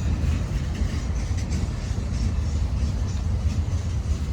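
Freight train cars rolling past, a steady low rumble of wheels on rail.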